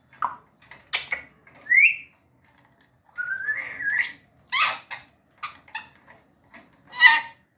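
African grey parrot giving a string of short whistles, clicks and squawky calls, with a short rising whistle about two seconds in and a longer wavering whistle soon after.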